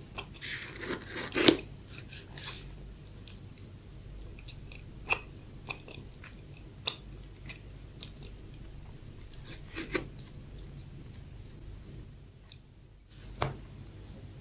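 Close-miked chewing and biting of soft bread. There is a loud bite about a second and a half in, then scattered short mouth clicks while chewing.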